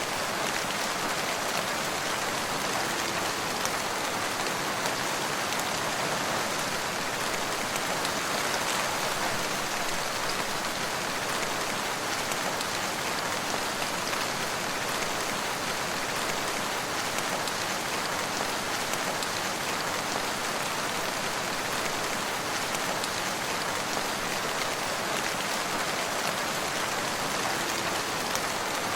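Steady rain falling, an even hiss of many drops with no change in intensity.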